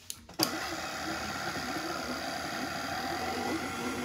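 KitchenAid stand mixer switched on with a click about half a second in, then its motor running steadily as the paddle beats powdered sugar, cream cheese and butter into frosting.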